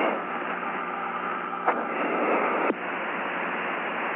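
Radio static hissing on a narrow 1961 spacecraft air-to-ground voice link, with sharp clicks about halfway through and a drop in the hiss after the second click.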